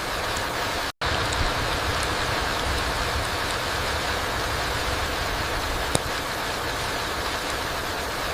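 Steady rain falling on a forest floor, an even hiss of rainfall with some low rumble. It cuts out for an instant about a second in, and a single sharp tick sounds about six seconds in.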